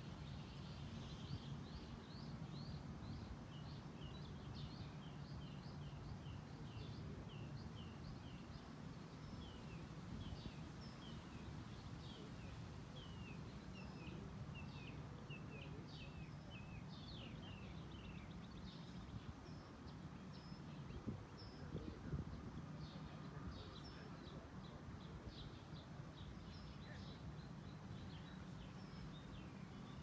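Many birds chirping in quick, short overlapping notes throughout, over a faint steady low rumble. Two brief bumps stand out about two-thirds of the way in.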